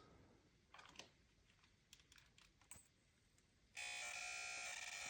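A few faint clicks, then about four seconds in a steady high buzz starts from the Panasonic TX-P65VT60 plasma TV. The buzz comes from the whole set rather than from one board and is the sign of its cracked plasma display panel.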